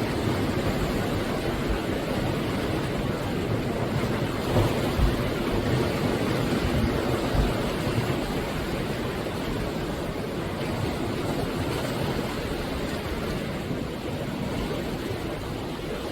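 Sea waves breaking and washing on the shore, a steady surf with a few low thumps from about four to seven and a half seconds in.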